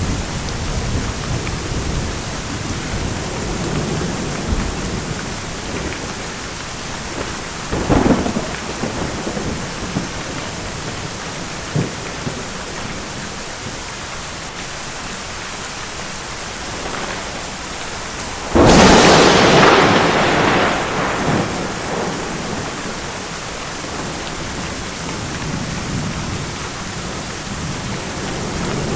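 Thunderstorm: steady heavy rain with low rolling thunder, a short sharp thunderclap about eight seconds in, and a much louder crash of thunder about two-thirds of the way through that starts suddenly and dies away over a few seconds.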